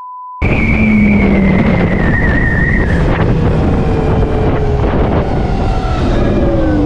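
Electric motorcycle's motor whine under heavy wind noise while riding, its pitch slowly falling as the bike slows. It opens with a short single-tone beep.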